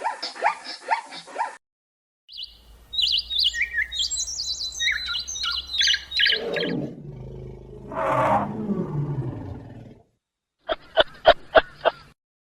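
A run of separate animal calls. First come about four seconds of high, quick chirping, then a low call that falls in pitch, then a brief burst of rapid pulsed calls near the end.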